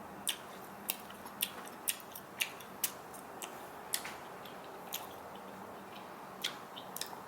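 Soft bubblegum being chewed close to the microphone: irregular small wet mouth clicks, roughly one or two a second.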